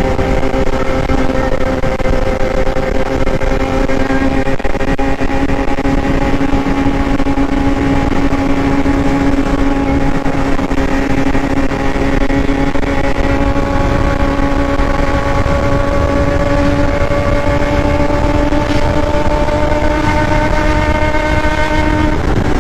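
Motor vehicle engine running steadily under way, its pitch slowly rising over about twenty seconds, over a constant rumble of road and wind noise.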